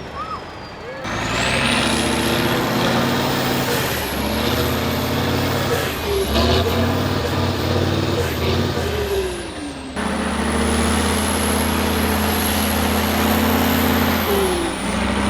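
Heavy off-road truck's diesel engine running hard under load, its pitch stepping up and down with the throttle. The sound breaks off abruptly and starts again about a second in and about ten seconds in.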